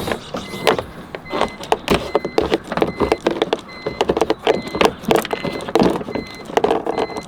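Rattling clicks and knocks of parts being handled inside a BMW E46, with a short high electronic beep repeating about every three-quarters of a second.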